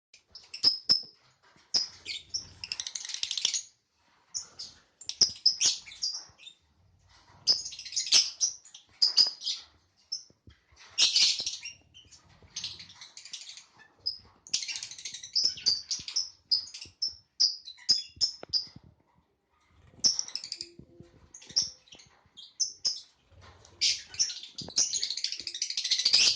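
Pet lovebird chirping in rapid bursts of high, shrill chirps, a second or two at a time with short pauses, with sharp clicks in between; the longest, densest burst comes near the end.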